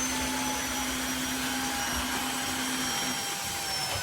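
Tineco iFLOOR 3 Breeze cordless wet-dry floor cleaner running in eco mode, a steady suction noise with a motor whine that slowly drops in pitch as the motor settles to the lower setting.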